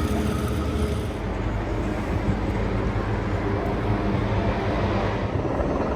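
A steady low engine drone with no clear rise or fall.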